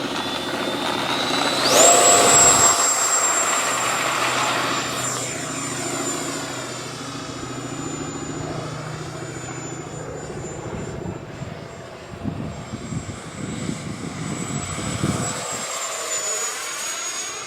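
Electric ducted fans of an FMS 64mm Rafale RC jet whining, spooling up sharply to full power about two seconds in for the takeoff run, then holding a steady high whine that eases a little near the end. Gusts of wind rumble on the microphone in the second half.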